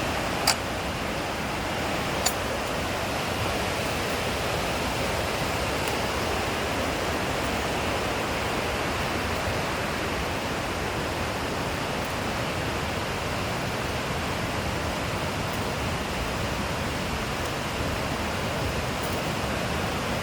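Steady rushing noise, with two short sharp clicks about half a second and two seconds in.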